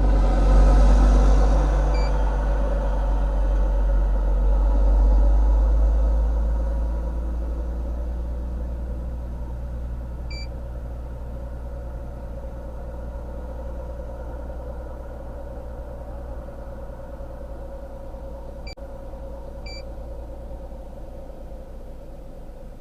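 A motor vehicle running, with a deep rumble that is loudest over the first five seconds and then settles to a steadier, quieter hum. Short high beeps sound four times: about 2 and 10 seconds in, then twice near the end.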